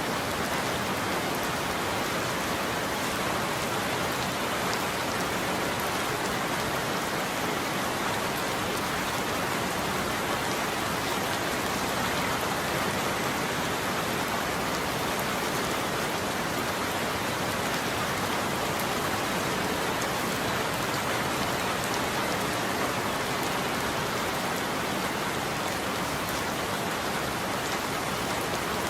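Steady heavy rain falling on a surface: an even hiss with faint scattered drop ticks and no thunder.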